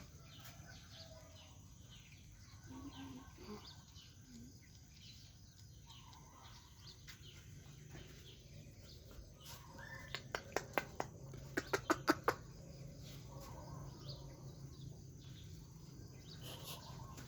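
Faint outdoor ambience with a steady low hum and scattered bird calls. About ten seconds in comes a quick run of about nine short, sharp calls in two bursts.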